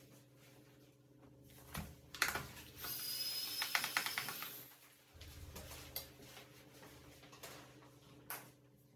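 Handling noises of small hard parts: scattered clicks and knocks, with about a second and a half of scraping and crackling in the middle, over a steady low hum.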